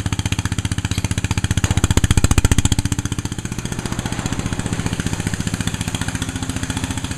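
A small engine running just after a cold start on full choke, firing in a steady, even beat. It picks up briefly about two seconds in, then settles back to a steady idle.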